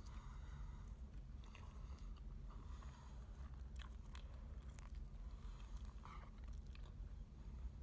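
A person eating with wooden chopsticks: faint chewing and crunching, with scattered sharp clicks about 1.5, 4 and 6 seconds in, over a low steady hum.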